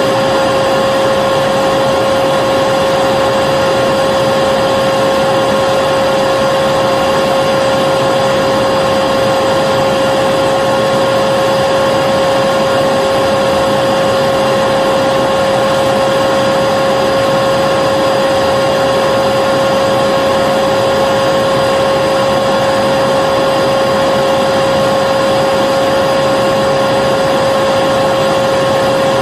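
Vacuum cleaner motor running continuously with a steady whine, loud and unchanging.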